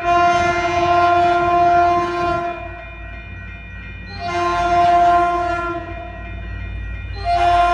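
Horn of a CalTrain EMD F40PH-2C diesel locomotive sounding in long blasts. The first blast ends about two and a half seconds in, a second lasts about a second and a half in the middle, and a third starts near the end. The train's low rumble runs beneath.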